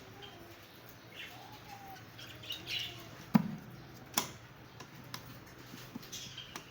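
Fischer's lovebirds chirping in short, scattered calls. A little after the middle come two sharp knocks, the first with a low thud, and these are the loudest sounds.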